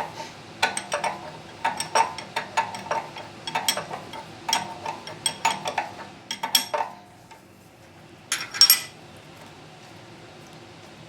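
Steel wrench clinking and clanking against the unloader fitting on a pressure washer pump. The clinks come in short clusters about once a second, and there is a brief metallic rattle about three-quarters of the way through.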